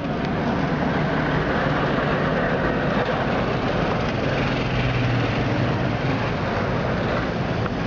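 Washing machine running with a steady rumble and low hum.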